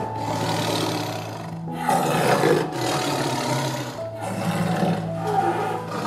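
Lion roaring in a series of rough calls about a second long each, the loudest about two seconds in, over steady background music.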